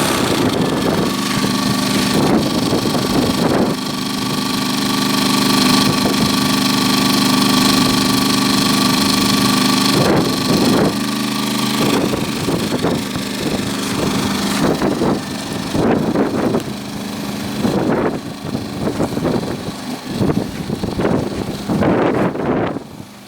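Champion 2000-watt inverter generator running steadily in econo mode, a continuous engine hum with several steady tones. Its loudness wavers up and down in the second half.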